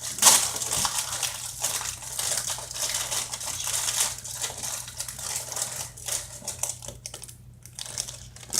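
Plastic wrapper of a pack of mini donuts crinkling as it is handled, in many irregular crackles, loudest about a quarter second in.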